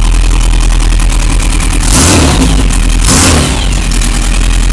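1957 Porsche 356 race car's air-cooled flat-four engine idling, blipped twice by the throttle about a second apart midway, each rev rising and dropping back within half a second.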